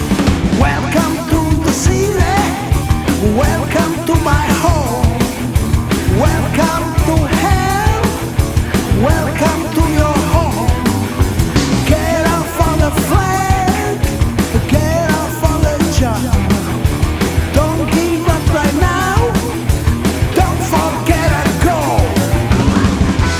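Loud rock music from a full band, with a steady driving beat and wavering melodic lines over it.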